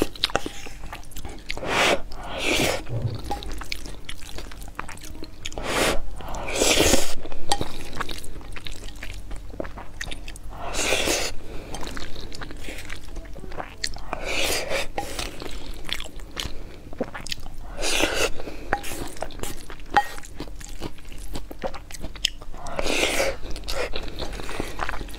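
Close-miked chewing of mouthfuls of tomato-and-egg fried rice, with wet mouth clicks. Every few seconds there is a longer scraping sound as a wooden spoon or chopsticks scoop rice from the bowl.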